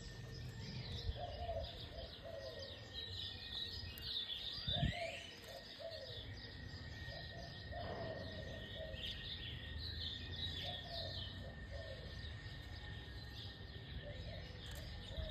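A flock of birds chirping and twittering continuously, many overlapping calls, with a lower call repeating every few seconds.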